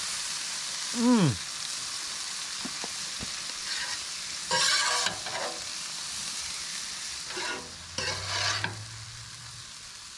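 Steak frying with a steady sizzle, with a couple of louder stirring or scraping bursts around the middle and near the end. About a second in, a short voice-like sound falls in pitch.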